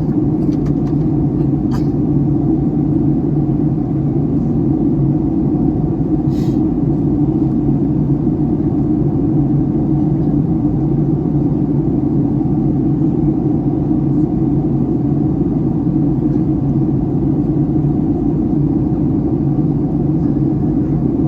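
Steady in-flight cabin drone of a Boeing 757-300: engine and airflow noise heard inside the passenger cabin as a constant low rumble, with a few faint clicks and a brief hiss about six seconds in.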